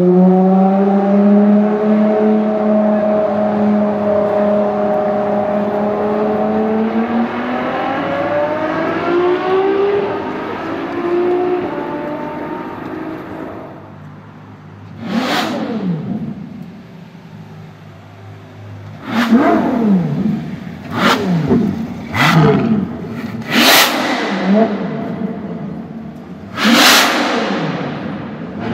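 Ferrari LaFerrari's V12 engine: first a held engine note that dips and climbs again before fading off about halfway through, then six sharp free revs in the second half, each shooting up in pitch and dropping back.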